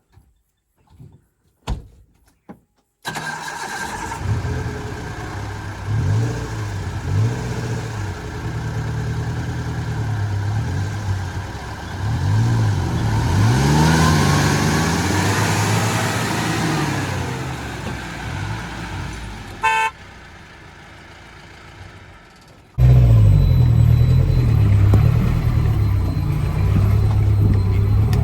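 4x4 off-road vehicle engine working hard, its pitch rising and falling again and again as it revs up and down. A short horn beep sounds about 20 seconds in. The engine sound starts and stops abruptly where the footage is cut.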